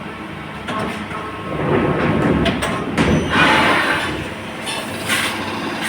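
CNC lathe running in the middle of a machining job: a steady mechanical rumble with louder hissing swells about halfway through and again near the end.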